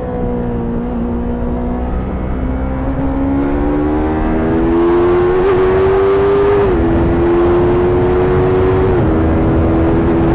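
Stock Yamaha YZF-R3's 321 cc parallel-twin engine, heard from the rider's seat. It slows at first, then pulls up steadily and grows louder, with two upshifts about two seconds apart where the pitch drops suddenly before rising again.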